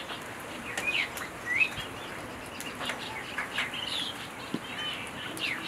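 Small birds chirping and twittering, short rising chirps in quick succession, with scattered sharp clicks.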